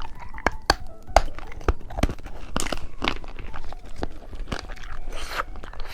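Eating candy: a string of sharp crunching clicks and crackles, mixed with the crinkle of a plastic wrapper.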